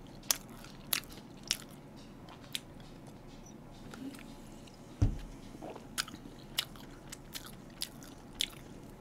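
Close-miked chewing of a toasted sandwich: sharp, scattered mouth clicks and small crunches, with a low thump about halfway through.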